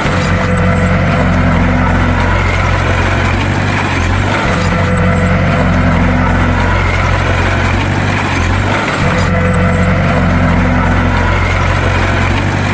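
Bulldozer's diesel engine running steadily with a heavy low drone; the sound swells and eases in a pattern that repeats about every four seconds.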